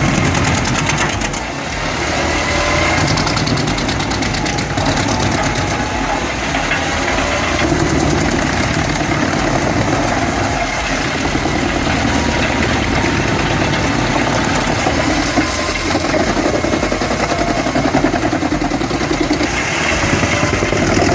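Heavy chipping or shredding machinery running steadily: a dense engine rumble with a faint whine that slowly wanders up and down in pitch.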